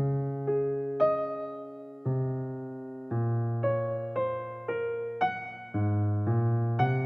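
Background music: a gentle electric piano playing slow chords and single notes, each struck and left to fade.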